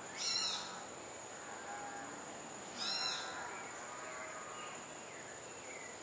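A bird call, given twice about three seconds apart, with fainter chirps between, over a steady high-pitched insect drone.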